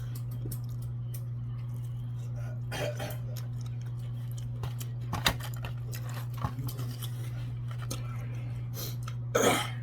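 Eating and food-handling noises over a steady low hum: scattered rustles and small clicks of food, containers and packaging, with a sharp click a little after five seconds in and a louder rustle near the end.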